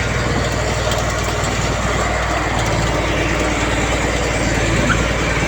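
Heavy diesel engine of earthmoving machinery, a bulldozer or dump truck, running steadily at an even level.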